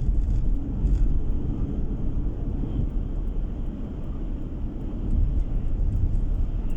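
Car on the move, heard from inside the cabin: a steady low rumble of road and engine noise.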